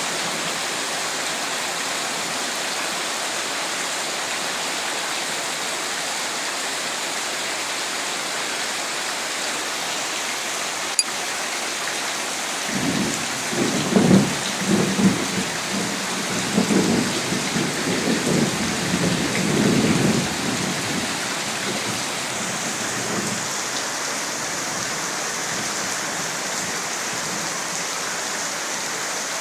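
Steady rain falling, with a rolling rumble of thunder that comes in about halfway through and lasts several seconds before fading back into the rain. A single sharp click sounds shortly before the thunder.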